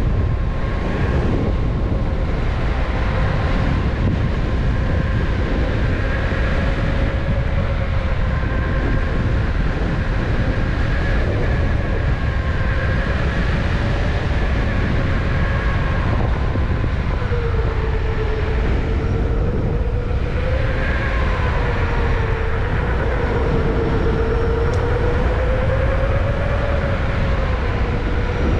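Electric unicycle on the move: the hub motor gives a thin whine that drifts up and down with speed, over a heavy rumble of wind on the microphone and road noise.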